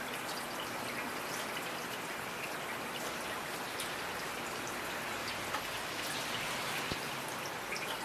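Steady rain falling, a continuous hiss with scattered sharper ticks of individual drops striking.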